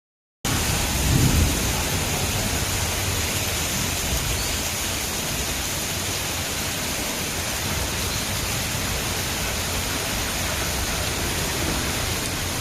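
Heavy monsoon rain pouring steadily, with a short low rumble of thunder about a second in.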